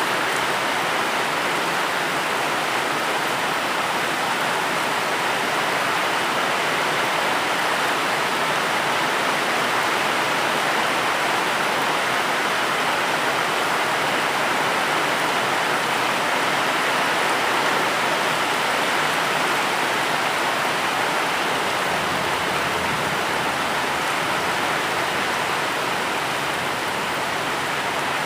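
Steady, even rainfall hiss with no separate drops or thunder standing out.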